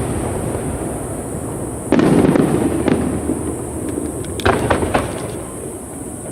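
Aerial fireworks shells bursting: a loud boom about two seconds in and another about four and a half seconds in, each with sharp crackles and a rumble that dies away.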